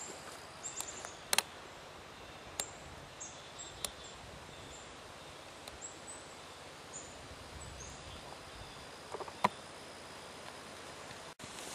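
Woodland ambience with a small bird repeating high, thin chirps that each dip in pitch, and a few sharp clicks from about a second in.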